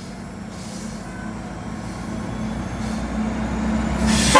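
GO Transit MP40 diesel locomotive hauling a commuter train on approach, its engine hum and wheel rumble growing steadily louder. A brief loud rush of noise comes just before the end.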